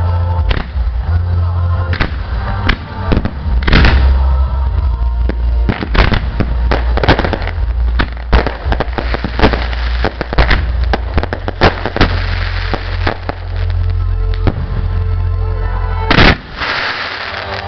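Fireworks bursting in quick succession, many sharp bangs with some crackling, densest in the middle, over music with a heavy bass line. The single loudest bang comes about sixteen seconds in.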